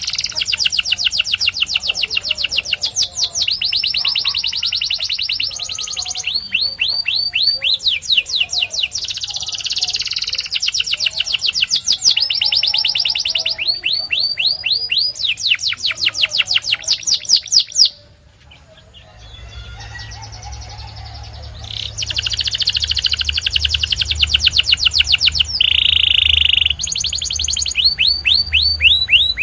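Domestic canary singing: long, fast trills of rapidly repeated sweeping notes, changing speed from phrase to phrase, with a brief break about two-thirds of the way through before the song picks up again.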